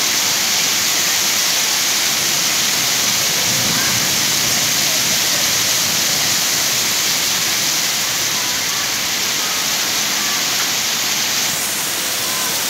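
Steady, loud rushing noise with no rhythm or pitch.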